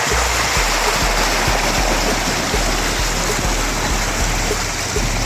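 Rushing river water, a loud steady roar that cuts off abruptly at the end, over background music with a steady bass beat.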